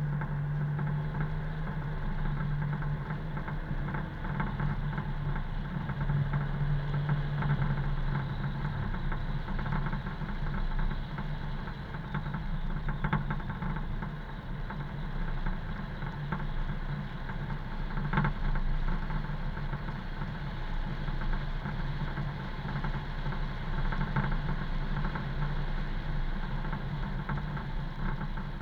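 A car driving, its engine running steadily under an even wash of road noise, with one brief knock about two-thirds of the way through.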